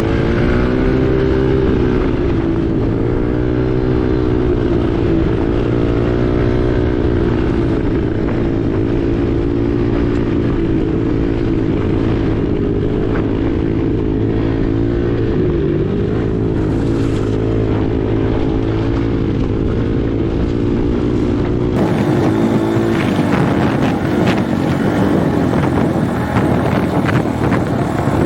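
Husqvarna 501 single-cylinder four-stroke dirt bike engine under way, its revs rising and falling with throttle and gear changes. Heavy wind rumble on the microphone runs throughout.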